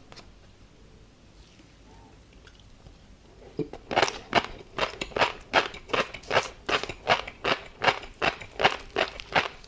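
Close-miked chewing of tobiko (flying fish roe) with a crunchy seafood topping. It is quiet at first; from a few seconds in comes a steady rhythm of crunches, about two to three a second.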